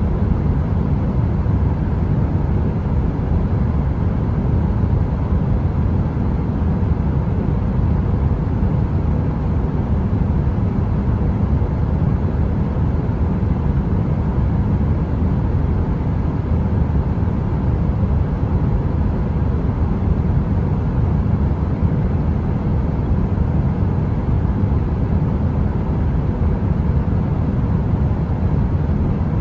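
Steady, low-pitched noise of a running heater's fan, deep and even like brown noise, with a faint steady hum on top.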